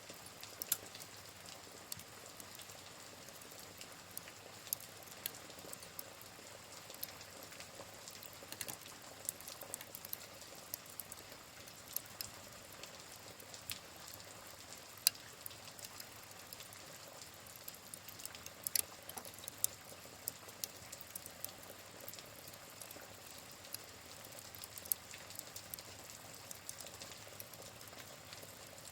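Wood fire crackling, with irregular sharp pops and snaps, over a steady soft hiss of rain.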